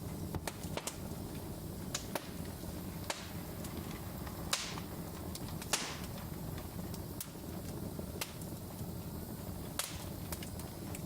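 Wood fire in a fireplace crackling: sharp, irregular pops over a steady low rumble of the burning logs, with two brief hissing flares about halfway through.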